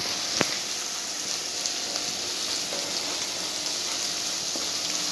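Crushed ginger, garlic and green chilli sizzling in hot coconut oil, a steady crackling as their water cooks off, with one sharp tap about half a second in.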